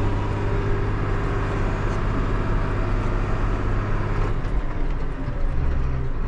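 Big John Deere farm tractor's diesel engine working hard under load as the tractor spins its way through a wet, slippery field, nearly stuck; the engine note drops lower a little over four seconds in.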